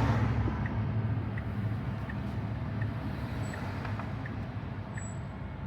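Road and tyre noise inside a moving Tesla Model Y electric car's cabin, slowly getting quieter, with a faint regular tick about every three-quarters of a second.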